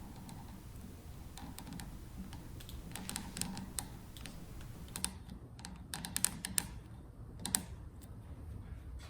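Scissors snipping through a paper tube-cutting template in short, irregular clicks, with the busiest run of snips in the second half.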